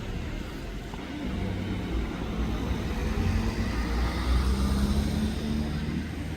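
A low engine rumble, growing louder around the middle of the clip and easing off toward the end.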